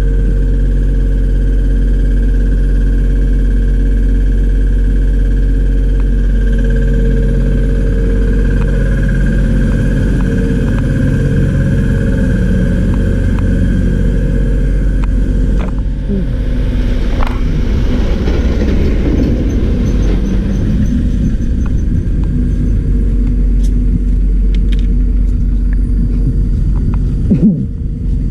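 A machine running steadily with a constant low hum. About sixteen seconds in, a rougher hissing noise joins it and lasts for several seconds.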